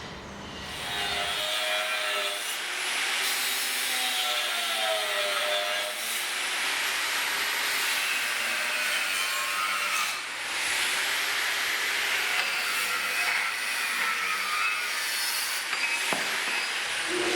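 A power tool cutting, running steadily with a rasping, wavering sound and a brief dip about ten seconds in.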